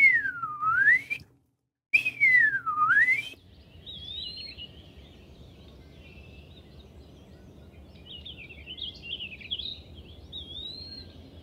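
Eastern wood-pewee singing its slurred 'pee-a-wee' whistle twice in quick succession; each note drops in pitch and rises again. After that, faint high twittering continues in the background.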